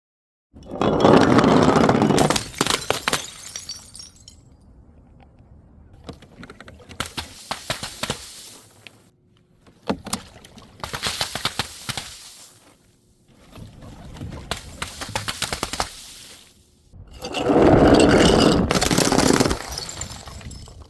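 Glass bottles shattering and crunching in about five separate bouts, the loudest near the start and near the end.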